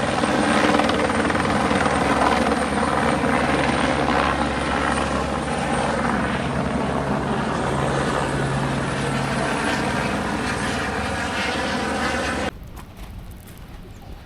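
Helicopter flying close by, a loud steady wash of rotor and engine noise that cuts off suddenly near the end.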